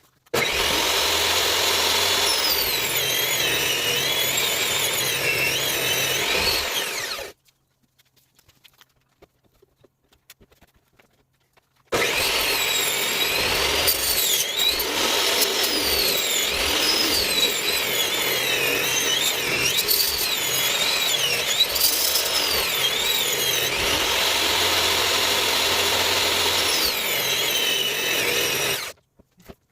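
Table saw with a 14-inch blade running and ripping wood, its whine wavering in pitch as the blade bites. The sound cuts off abruptly about seven seconds in, there are about five seconds of near silence, then it starts again abruptly and runs until just before the end.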